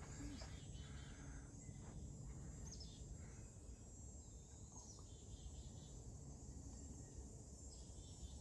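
Quiet woodland ambience: a few faint, brief bird chirps over a low, steady background rumble.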